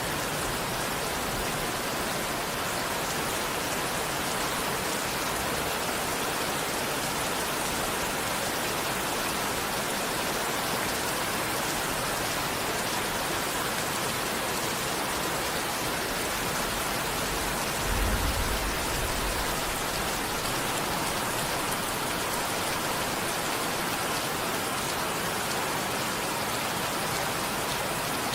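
Steady, heavy rain falling, an even dense hiss. About two-thirds of the way through, a brief low thump or rumble lasts about a second.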